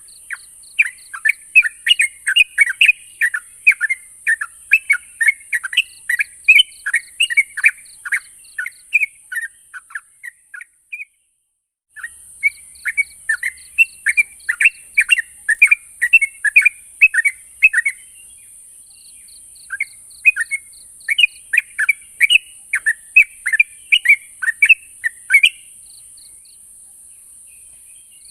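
Trucukan (yellow-vented bulbul) singing rapid runs of short, bubbly chirps over a steady high-pitched hiss. The song fades out about ten seconds in, stops for a moment, then starts again, with another short pause past the middle.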